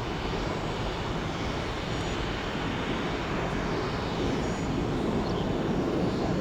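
Jet airliner engines rumbling steadily, growing a little louder near the end.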